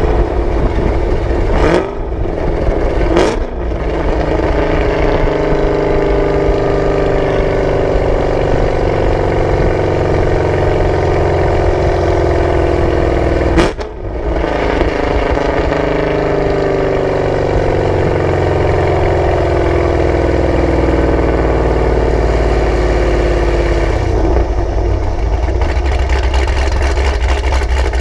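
Chevrolet Camaro ZL1's supercharged V8 and exhaust running under way, its pitch falling slowly over long stretches as the revs drop, with short breaks in the sound about two, three and a half, and fourteen seconds in.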